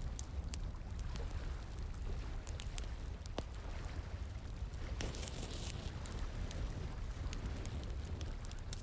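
Bonfire crackling, with sharp pops scattered all through, over the steady rush of flowing water; a brief louder hiss about five seconds in.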